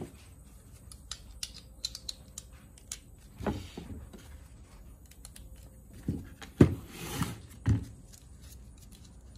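Metal parts of a car starter motor being handled and worked apart by hand: scattered light clinks and clicks, with a few duller knocks, the loudest about six and a half seconds in.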